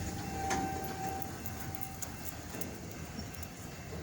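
A train moves slowly through the yard with a low rumble. A knock comes about half a second in, and a thin steady squeal runs for about a second and a half as the train slows to a stop.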